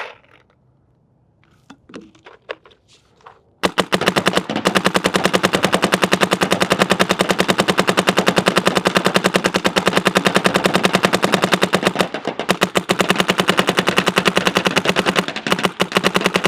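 A few light clicks, then, about three and a half seconds in, a Shocker ERA electronic paintball marker on compressed air opens up in a fast full-auto stream of shots. It keeps firing with only two brief breaks, emptying a pod of paint, with the paintballs smacking a target sign downrange.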